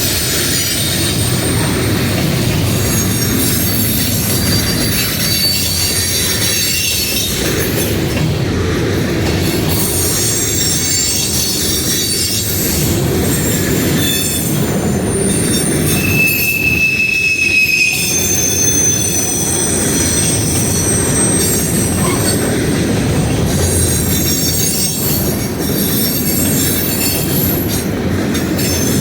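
A freight train rolling past close by: a steady loud rumble of cars on the rails, with high wheel squeals that come and go at several pitches, the clearest one held for about two seconds around the middle.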